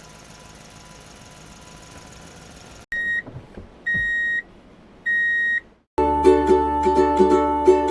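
A faint steady hum that cuts off abruptly, followed by three short electronic beeps about a second apart. Plucked ukulele music starts near the end.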